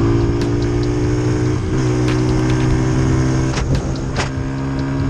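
Single-cylinder Kawasaki dirt bike engine running steadily under way, its pitch stepping up a little about a second and a half in, with a few sharp ticks.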